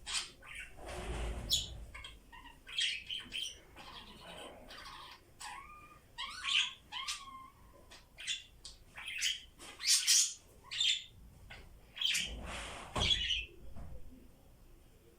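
Pet budgerigars chirping and chattering: a string of short, quick chirps and a few gliding whistles, with a couple of longer, harsher calls about a second in and near the end.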